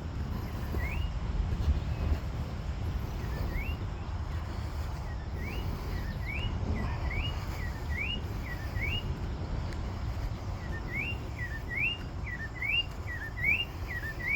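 A bird calling short rising notes again and again, several in quick runs, with a steady low rumble beneath.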